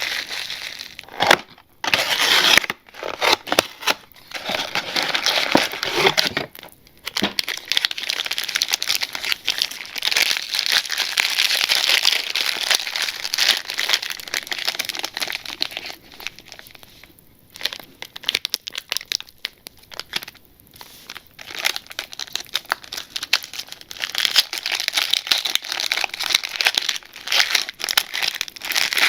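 Plastic packaging of a Panini Zenith football card box crinkled and crackled by hand, in dense spells with a few short pauses.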